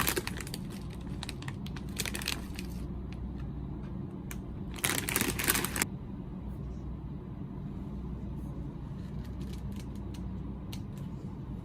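Snack packaging being handled: plastic crinkling, a louder rustle or tear lasting about a second around five seconds in, then light clicks and taps.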